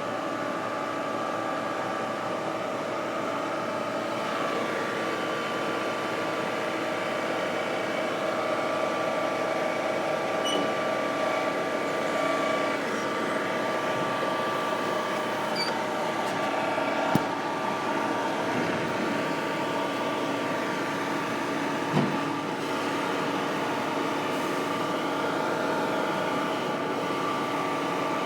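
Zoomlion 37 m truck-mounted concrete pump running steadily, a constant droning hum, with two sharp knocks about five seconds apart past the middle.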